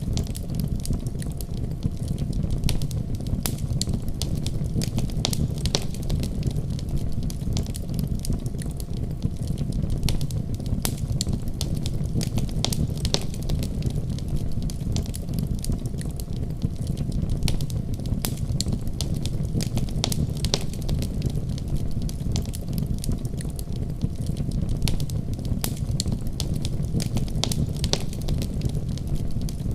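Fire in a fireplace crackling steadily, with a low rumble of flames under frequent sharp, irregular pops and snaps.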